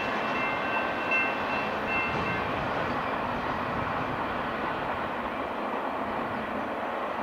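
BNSF intermodal freight train's last cars running away past a grade crossing, the steady rail noise slowly easing. A few faint high ringing tones come and go over the first couple of seconds, then stop.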